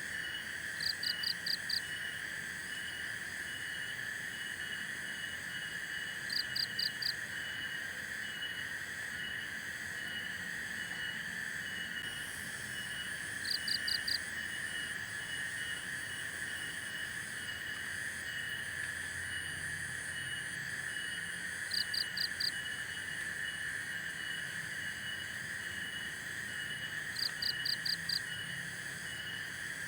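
Steady chorus of crickets and other insects: a continuous high hiss with a fast, even pulsing chirp above it. Five times, a short call of four or five quick high notes cuts in, every five to eight seconds.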